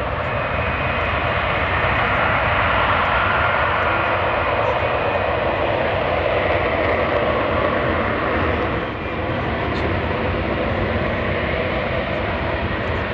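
Lockheed Martin F-35B's Pratt & Whitney F135 jet engine running, a loud steady jet noise with a faint high whine, dipping briefly about nine seconds in.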